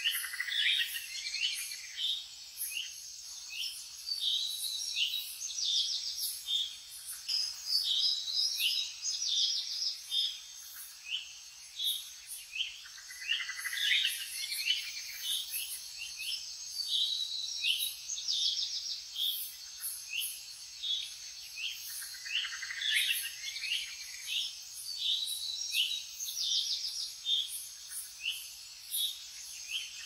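Small birds chirping and twittering throughout, in many short repeated calls with several quick trills. A steady, fast, high ticking runs underneath.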